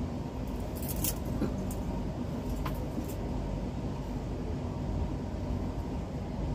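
Steady low rumble of a passenger train running, heard from inside the coach, with a few light clicks and taps about a second in and again two to three seconds in.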